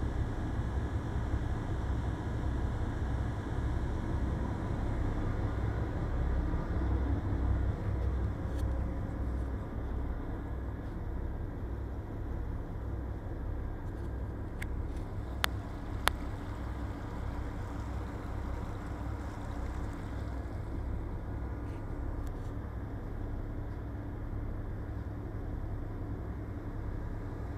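Steady low rumble of a ship's machinery with an even, pulsing beat. Two sharp clicks come about halfway through.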